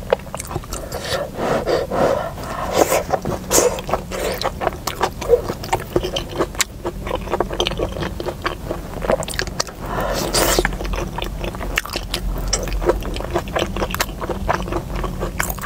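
Close-mic'd eating of stir-fried mianfeizi and rice sausage: wet chewing with many small irregular mouth clicks and smacks, and chopsticks scraping in a plastic takeout bowl. A louder breathy hiss about ten seconds in.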